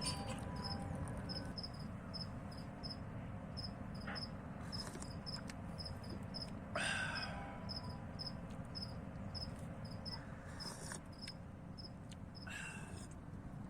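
A cricket chirping steadily, about two to three short high chirps a second, over a low rumbling background. A brief rustle comes about seven seconds in and another near the end.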